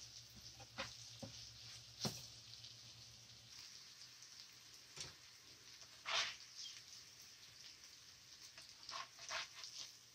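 Sand fleas frying in butter and oil in a non-stick pan, a faint sizzle, with a plastic slotted spatula scraping and tapping against the pan every second or two, the loudest scrape about six seconds in.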